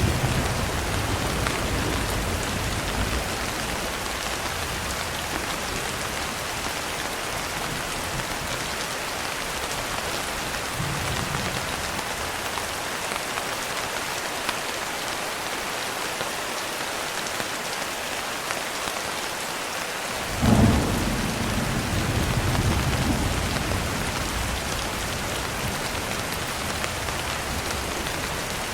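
Steady rain pattering on a window, with thunder rumbling in the first few seconds and a sudden thunderclap about two-thirds of the way through that rumbles away over the next few seconds.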